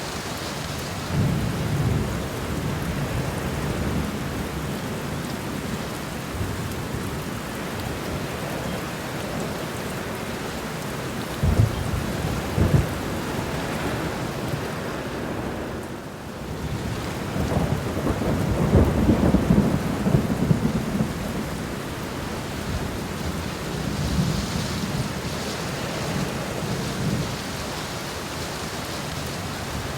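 Steady rain with thunder rumbling in waves. There are two short, sharp peals about twelve seconds in, and a longer, louder roll of thunder a few seconds later.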